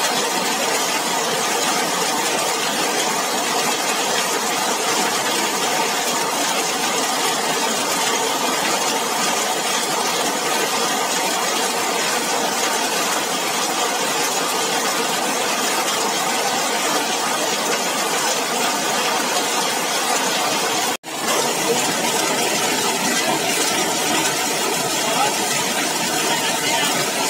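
Steady rain falling on a zinc roof, a dense unbroken patter and hiss. The sound cuts out for an instant about three quarters of the way through, then carries on as before.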